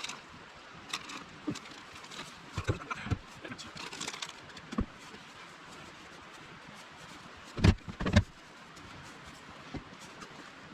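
Scattered clicks and knocks of cooking gear being handled, then two loud dull thumps close together a little past halfway.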